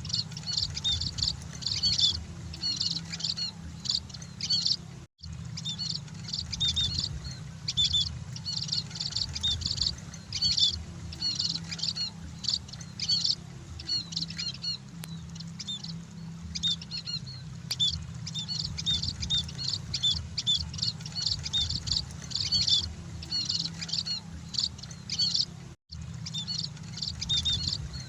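Emprit (munia finches) chirping in dense clusters of short high notes, one cluster every second or so, over a steady low hum. The sound drops out twice, briefly.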